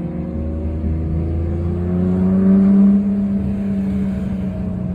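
Nissan GT-R's engine and exhaust droning steadily, heard from inside the cabin while driving. Its pitch and loudness rise gently as it accelerates about two seconds in, then ease off a little around three seconds.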